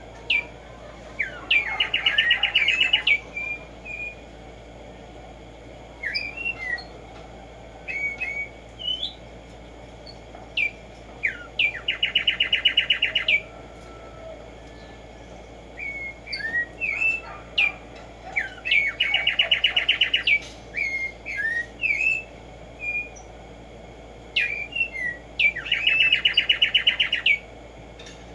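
Black-striped sparrow (tumba yegua) singing. A few separate slurred notes lead into a fast, even trill lasting about a second and a half, and the song comes four times, about every seven seconds.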